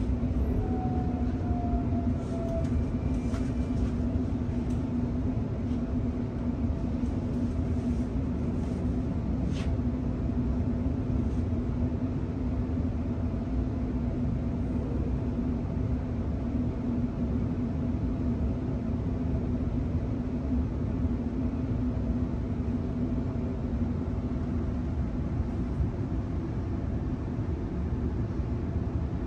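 Interior running noise of a Sydney Trains Millennium (M set) electric train in motion: a steady rumble of wheels on track with a constant hum, and a few faint clicks in the first ten seconds.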